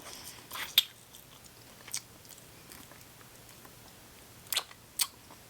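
Close-miked mouth sounds of someone chewing chicken, with a few sharp wet clicks and smacks.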